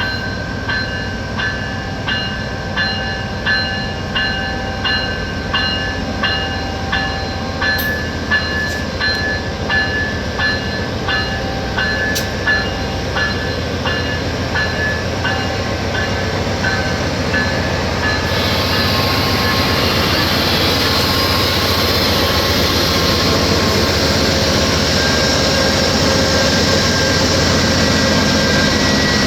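An Amtrak passenger train departs under ALC-42 Charger diesel-electric power, its engine running low and steady while a bell rings in an even rhythm, about one and a half strokes a second. About halfway through the bell stops, and the locomotive's engine and train noise swell loud as it comes close past.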